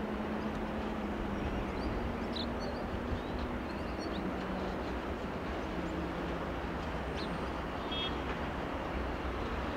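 Electric commuter train approaching slowly: a steady low rumble with a faint hum.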